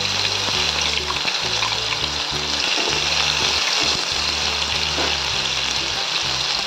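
Masala paste frying in hot oil with cumin and mustard seeds, a steady sizzle, with background music underneath.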